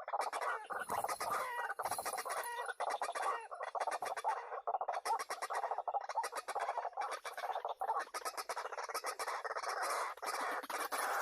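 White-breasted waterhens calling: a continuous run of rapid, repeated calls.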